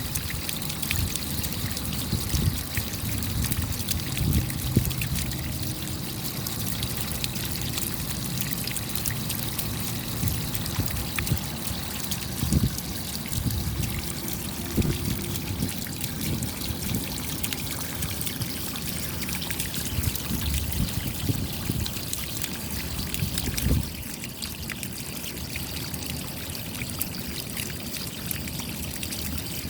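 Rain falling steadily, with water trickling and pouring as runoff and many small drop ticks. A few heavier low thuds stand out now and then.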